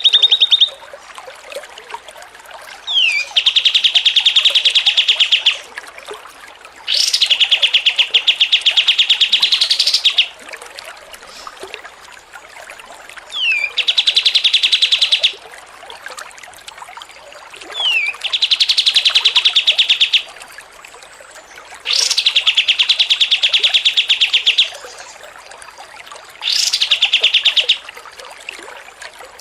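A songbird repeating a fast, rattling trill about six times, each burst lasting two to three seconds with short pauses between, several opening with a brief falling whistle.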